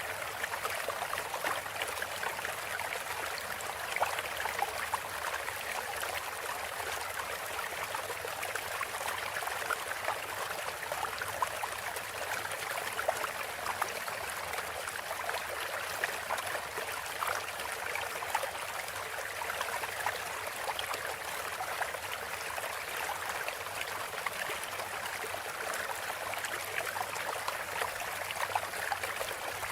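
Flowing water, a steady stream with a trickle and small splashes, running evenly throughout.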